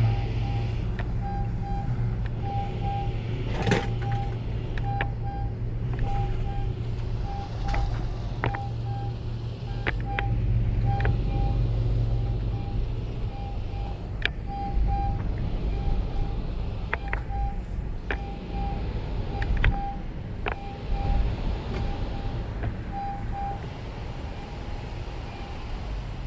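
Honda's warning chime beeping over and over, short high tones in uneven runs that stop near the end, over a steady low engine rumble. Sharp clicks and knocks sound now and then, the loudest about four seconds in.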